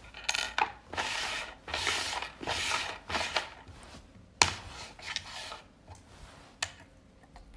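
A run of rough scraping or rubbing strokes, about one every half second, fading out after about three seconds, then a few single sharp knocks.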